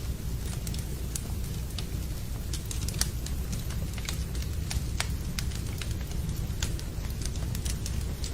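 Wood fire in a fireplace crackling with frequent sharp pops, over a steady rumble of rain.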